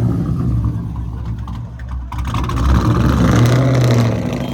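A car engine revs as the car drives slowly away through the meet, with a louder surge of revs about three seconds in.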